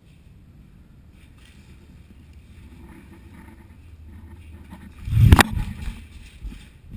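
Low rumble of wind and movement on the microphone, with one loud thump a little past five seconds in and a few smaller knocks after it.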